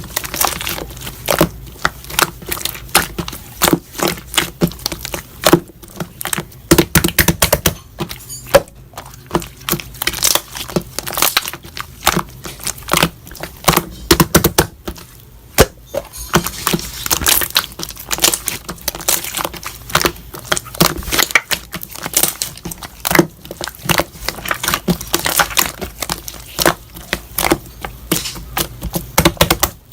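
Slime being squeezed, pressed and stretched by hand, giving a dense run of crackling, popping clicks.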